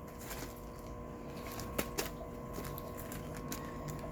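Faint scattered clicks and light handling noises over a steady low hum.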